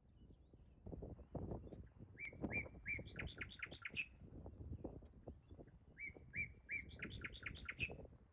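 A songbird sings the same short phrase twice: a few even notes, then a quick run of higher notes. Under it run irregular low knocks and rustles.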